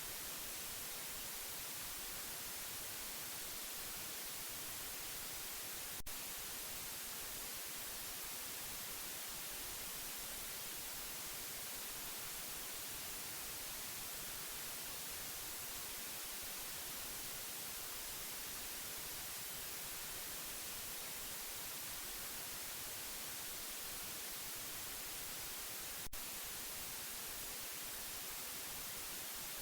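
Steady white noise, an even hiss that is brightest in the treble. It is broken only by two brief clicks about twenty seconds apart.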